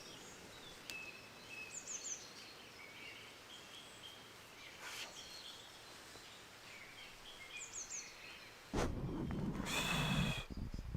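Faint birdsong of a woodland dawn chorus: scattered high chirps and short quick descending trills. Near the end, about nine seconds in, close rustling and handling noise starts up, with a louder bird call over it.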